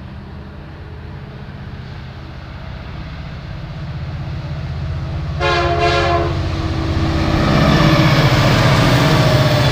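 Two Union Pacific diesel freight locomotives approaching and passing, their low engine rumble growing steadily louder. A short air horn blast of about a second sounds about five and a half seconds in, and wheel and rail noise builds as the lead locomotive goes by.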